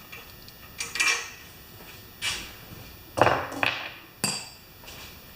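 Small metal parts and tools clinking and knocking on a workbench while a small engine's carburetor is removed: several separate clanks, the heaviest about three seconds in, then a sharp click.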